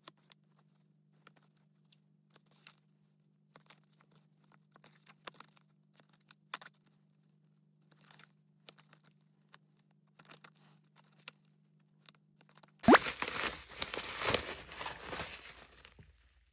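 Light crinkles and taps of plastic packaging being handled, then, about thirteen seconds in, a loud tear lasting about three seconds as a sealed goods wrapper is ripped open.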